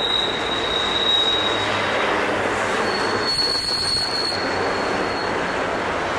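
Freight train cars rolling past with a steady rumble and high-pitched wheel squeal. One squeal fades out a little over a second in; another sets in around three seconds and stops about two seconds later.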